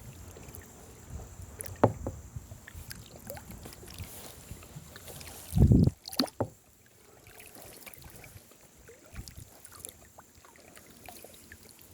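Small knocks and light water sounds around a kayak, with a short click a couple of seconds in and one dull low thump about halfway through.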